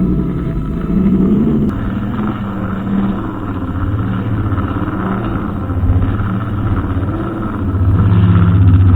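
Brushcutter engine running, its speed rising and falling unevenly, louder near the end.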